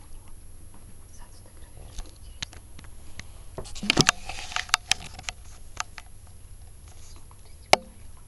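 Scattered light taps and clicks, with a quick cluster about halfway through and one sharp click near the end.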